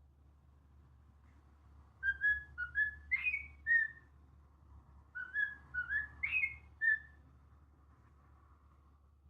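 Cockatiel whistling, with two short phrases of clear notes that glide up and down, one about two seconds in and another about five seconds in.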